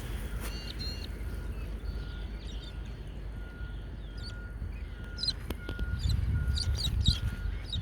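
Birds chirping and calling outdoors, with a short high note repeating evenly and a steady low rumble beneath. The chirps grow busier and the low rumble louder in the last two or three seconds.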